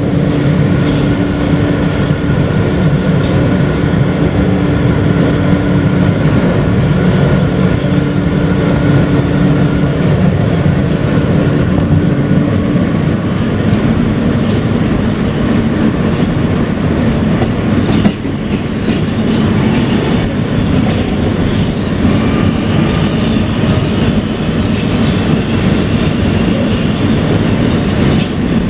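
Kawasaki R160B subway car with Siemens propulsion running at speed: a steady rumble of wheels on rail with clickety-clack over the rail joints, overlaid by a steady motor tone that changes about halfway through. A single sharp knock comes about two-thirds of the way in.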